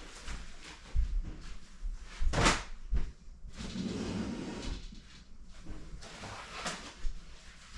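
New motocross gear being handled: rustling of fabric and plastic with a few sharp knocks and thumps.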